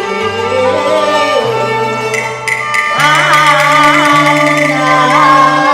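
Cantonese opera music: a melody over held bass notes. A few sharp percussive strokes come just past the middle, then a high melody with strong vibrato enters.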